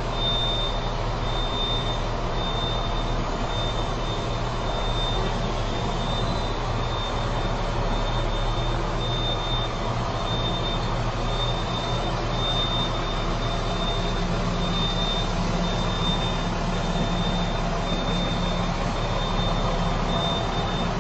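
A semi-truck tractor unit's diesel engine running steadily during low-speed maneuvering. A thin, high-pitched beep sounds on and off throughout.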